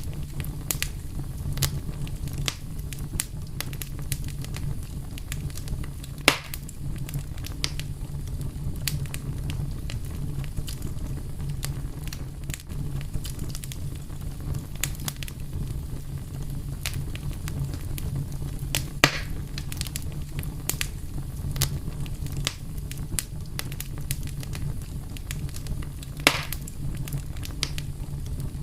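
Wood fire crackling over a steady low rumble, with frequent small snaps and three louder pops, about six, nineteen and twenty-six seconds in.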